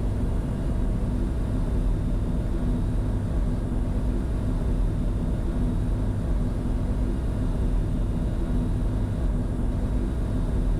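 Steady cockpit noise of a Bombardier Challenger 605 on approach with gear down and flaps 30: constant airflow and engine noise from its twin GE CF34 turbofans, mostly deep, with a faint steady hum and no changes.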